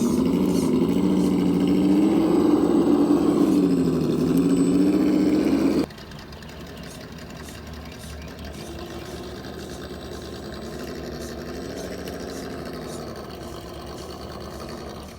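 Simulated truck engine sound from an RC crawler's engine sound simulator module, idling with its pitch wavering up and down as if being blipped. About six seconds in it suddenly drops much quieter and carries on at the lower level.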